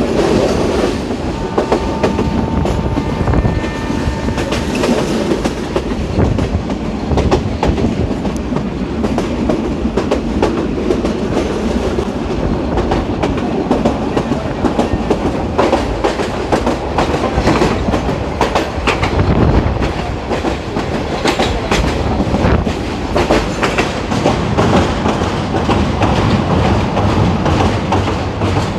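A moving train running on the rails: a steady rumble with dense clattering of the wheels over the track.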